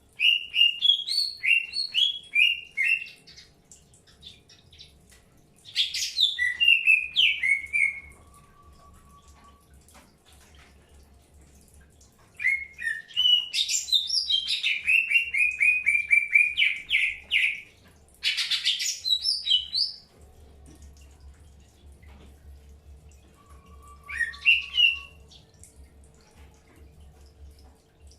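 Green leafbirds (cucak hijau) singing in about five separate bouts of quick, jumping chirped phrases, with a short steady whistle twice, while being paired for breeding.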